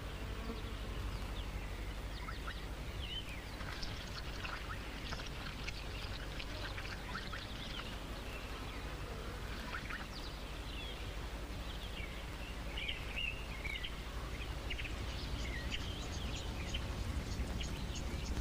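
Scattered short bird chirps and calls, some gliding in pitch, over a steady low hum.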